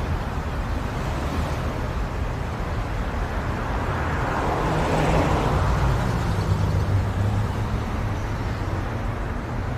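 Road vehicle noise: a low engine hum under tyre and road rush that swells about halfway through and then eases off.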